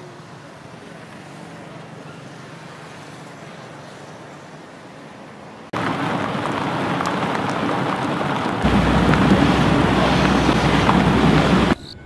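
Heavy rain pouring down, starting abruptly about halfway in after a faint steady background hiss, and growing louder with a low rumble about two-thirds in before cutting off just before the end.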